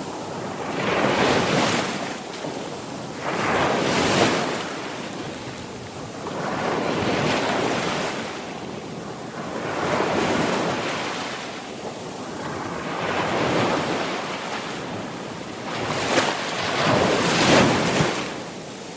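Sea waves breaking and washing on the shore, the surf swelling and ebbing every three seconds or so, with the largest surges about a second and four seconds in and near the end.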